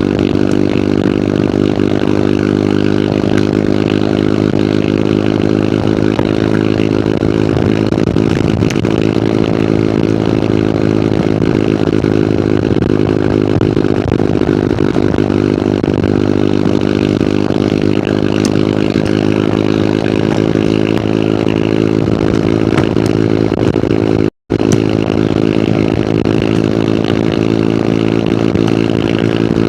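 Hero Hunk's single-cylinder motorcycle engine running at a steady speed, heard from on the bike while riding. The sound cuts out for an instant about three-quarters of the way through.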